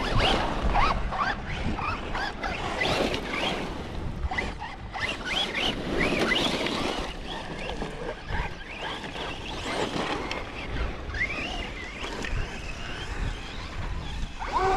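Electric motors of battery-powered RC trucks whining, rising and falling in pitch again and again as they accelerate and let off, over a steady rushing noise.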